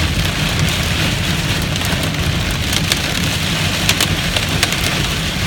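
Heavy downpour of rain and hail about an inch across, a dense steady hiss with many sharp, irregular clicks and cracks of individual hailstones striking hard surfaces, over a low rumble.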